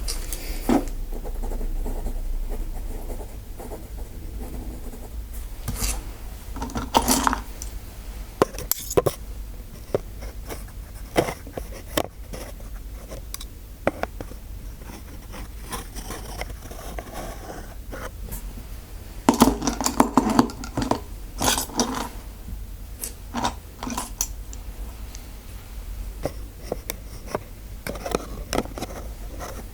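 Small metal dental instruments scraping, tapping and clicking close to the microphone, with brief bursts of busier handling about a quarter of the way in and again about two-thirds of the way through.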